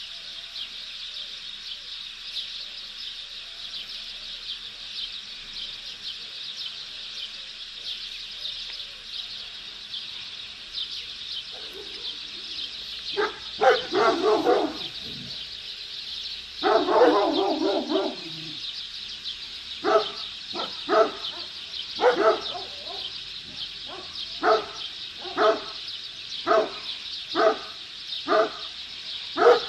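Dogs barking, starting about twelve seconds in: two bursts of rapid barking, then single barks about once a second, over a steady high buzz.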